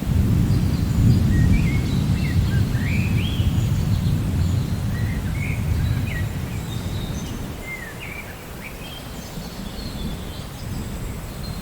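Low rumble of thunder that sets in at the start and slowly dies away, with birds chirping short rising and falling calls over it.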